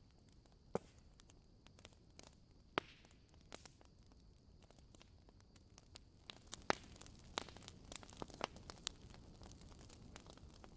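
Wood fire crackling in a fireplace: irregular sharp pops and snaps over a faint steady hiss, the pops coming more often in the second half.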